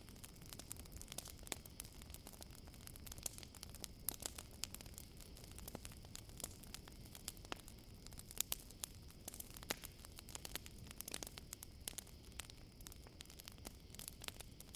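Wood campfire crackling, with frequent irregular sharp pops and snaps over a low steady hiss of the flames. A steady high-pitched trill of crickets runs underneath.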